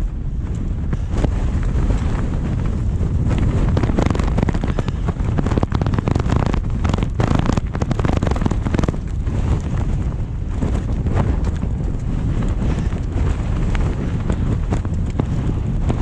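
Strong mountain gale buffeting the microphone: a loud, unbroken low rumble with irregular cracks and flaps running through it.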